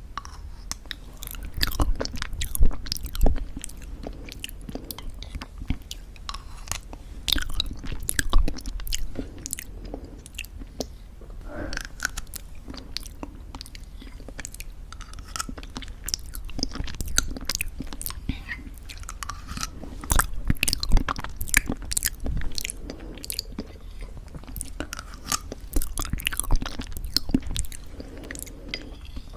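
Close-miked crunchy chewing of homemade granola in thick yogurt: dense crackling crunches and moist mouth sounds, with bigger crunches now and then.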